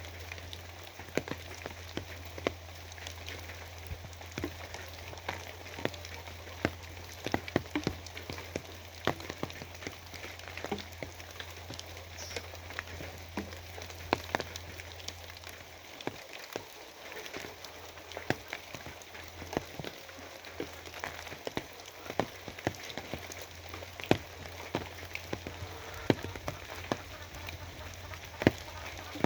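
Steady rain with many separate drops tapping irregularly and sharply on a surface, over a low steady hum that drops out for a few seconds around the middle.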